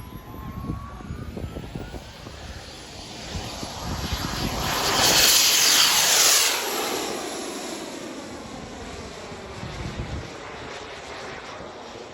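Turbine engine of an RC model jet flying past: a jet whine and hiss that builds to a loud peak about halfway through, then fades away.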